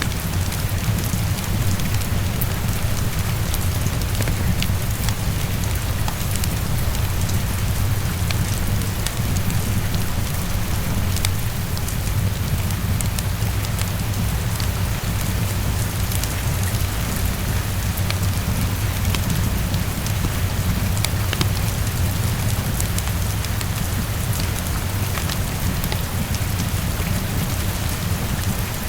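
Heavy rain falling steadily against a window, with a constant low rumble underneath and scattered small ticks of drops, or of a fire's crackle, through it.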